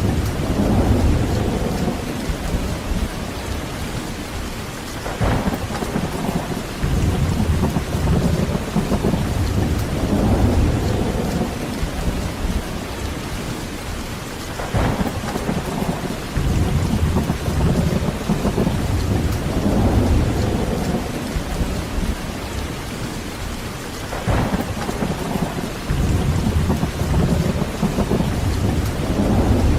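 Heavy rain falling steadily, with low rolling thunder that swells every few seconds and sharper thunder cracks three times, about ten seconds apart.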